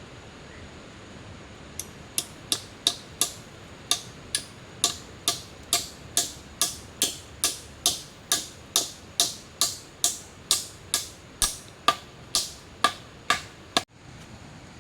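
A run of sharp, evenly spaced knocks, about two a second, each ringing briefly, that stops abruptly near the end.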